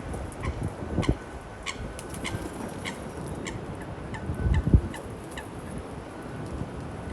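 A string of short, sharp bird calls, about two a second, over wind buffeting the microphone, with strong gusts about a second in and around four and a half seconds in.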